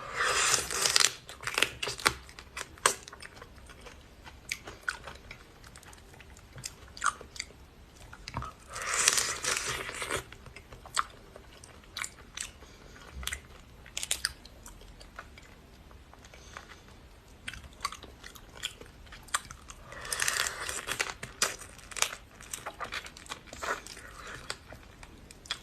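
A person eating crunchy food close to the microphone: three loud crunching bites about ten seconds apart, with bouts of crisp chewing clicks and crunches in between.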